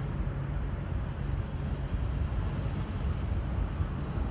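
Electric passenger trains running along the tracks: a steady low rumble of wheels and traction motors.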